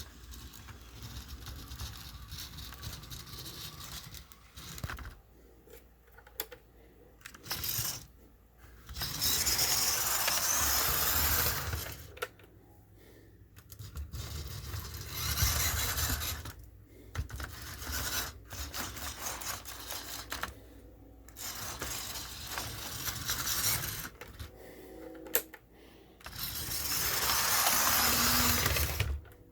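Life-Like model diesel locomotive running on its track, its small motor and wheels making a rough, rattling whir that swells and fades in several surges, loudest about a third of the way in and again near the end.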